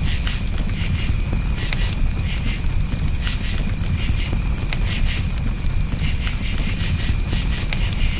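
Campfire burning, with a low rumble and scattered crackles and pops, under crickets chirping in short, rapidly pulsed trills that repeat every second or so.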